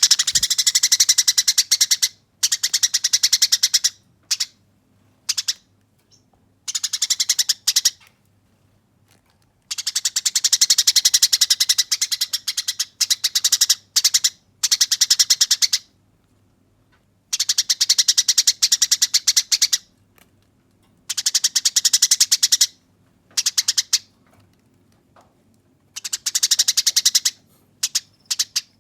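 A Eurasian tree sparrow giving its fighting call: rapid, rolling, harsh chatter-trills, rough but clear, in about a dozen bursts lasting from a fraction of a second to a few seconds, with short pauses between them.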